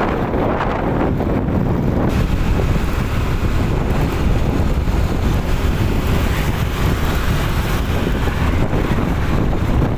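Wind buffeting the microphone: a loud, steady rumbling noise without any clear tone.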